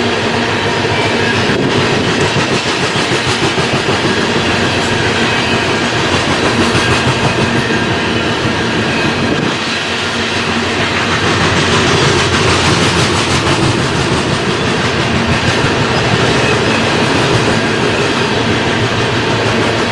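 BNSF loaded coal train's cars rolling past close by, a steady loud rumble with rapid clickety-clack of wheels over the rail joints; the train is moving fast.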